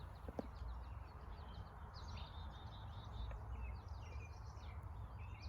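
Small songbirds chirping in quick, high-pitched calls, busiest in the middle, over a steady low background rumble.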